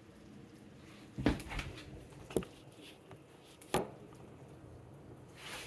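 A few sharp knocks and clatters of cookware being handled on the stove, spaced about a second apart, with a brief hiss near the end.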